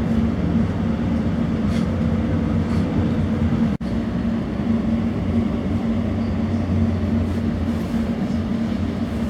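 Elizabeth line train running at speed: a steady rumble with a constant low hum. It breaks off for a split second about four seconds in.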